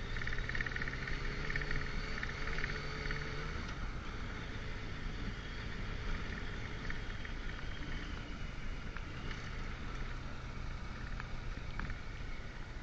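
Motorcycle engine running steadily while riding, with wind and road noise; the engine pitch rises slightly in the first few seconds, then holds.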